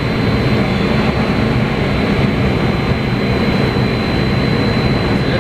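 Hurricane simulator's blowers driving a steady, loud rush of wind through the booth, with a thin steady high whine over it. The air blast is buffeting the microphone.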